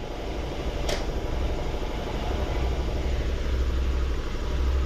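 VW Tiguan 2.0L TSI turbocharged four-cylinder engine idling steadily, with a coil misfire that has been traced to a bad ignition coil. There is a single sharp click about a second in.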